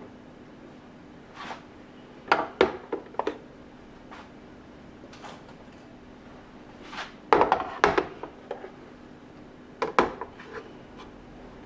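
Household items being handled and set down: four clusters of sharp knocks and clatters, the loudest a little past the middle, over a faint steady hum.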